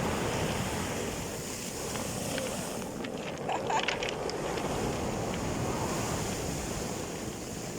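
Storm surf on the sea: big waves rushing and breaking in a steady roar of water.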